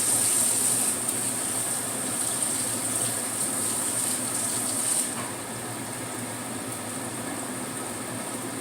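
Kitchen tap running as a child's hand is rinsed under it, shutting off about five seconds in. Tofu frying in oil keeps a steady sizzle underneath.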